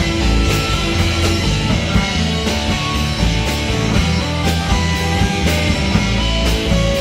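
Live band playing a rock song, with a steady beat of about two strokes a second.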